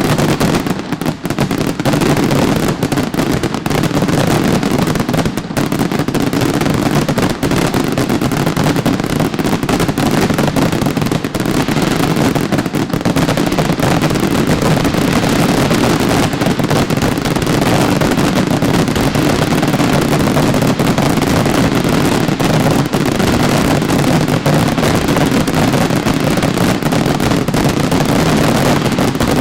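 Fireworks going off in a dense, unbroken barrage of bangs and crackle, with no pauses.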